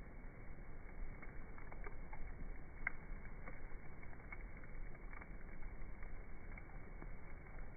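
Wood campfire burning with a steady hiss and scattered sharp crackles and pops, the loudest about three seconds in.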